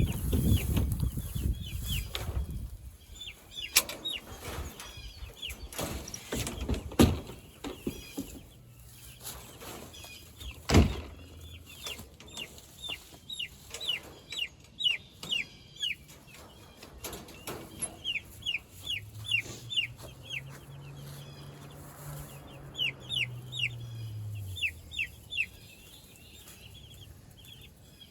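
Young meat chickens peeping in quick strings of short, high, falling chirps, with several sharp knocks in the first half and a low hum that swells and fades about two-thirds of the way through.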